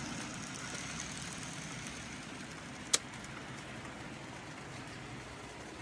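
N gauge model trains running on the layout: a steady low whir and rumble of small motors and wheels on track, with a single sharp click about three seconds in.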